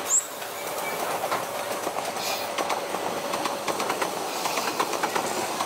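Electric express train running past close by, its wheels clicking over rail joints and points. A brief high squeal right at the start is the loudest moment.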